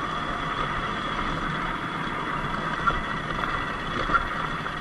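Sur-Ron X Light Bee electric dirt bike riding on a dirt road: a steady electric motor and drivetrain whine mixed with wind and tyre noise. Two brief knocks come about three and four seconds in.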